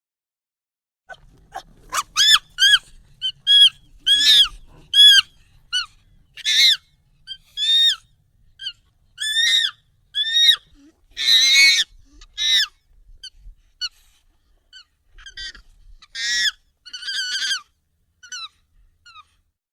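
Monkey calls, sped up and pitched high: a quick run of short high-pitched calls, each rising and falling, with a louder, harsher call or two near the middle.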